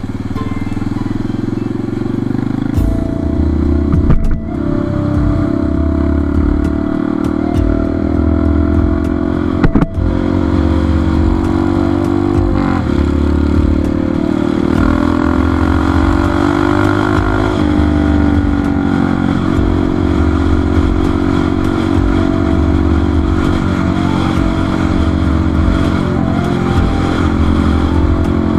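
Motorcycle engine running while riding, its pitch rising through the middle and dropping back about two-thirds of the way in. Two sharp knocks come in the first third.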